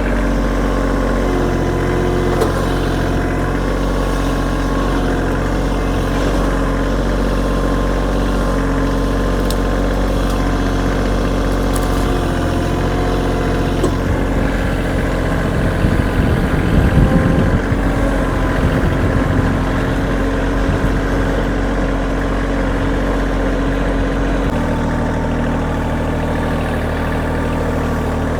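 Kioti tractor's diesel engine running steadily, with a few seconds of rough, louder knocking partway through and a change to a lower engine note near the end.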